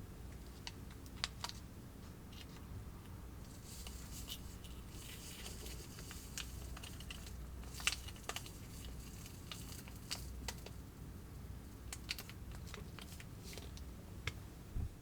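Plastic packets of a Kracie DIY candy kit being handled: scattered light clicks and taps, with a few seconds of crinkling and tearing about four seconds in.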